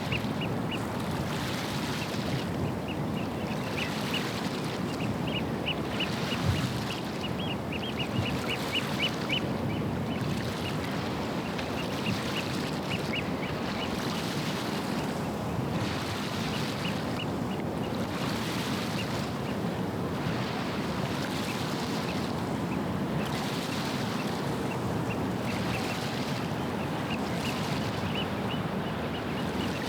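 Steady rush of wind and water with a low rumble, overlaid several times by birds calling in runs of short, quick, high notes.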